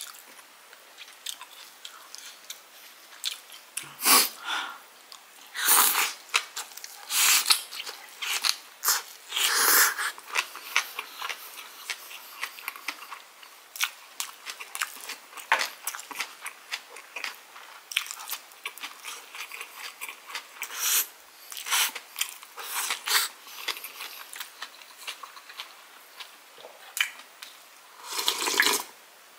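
Close-miked chewing and crunching of kimchi and rice: wet mouth sounds with irregular crisp crunches. Near the end comes a longer sip from a brass bowl.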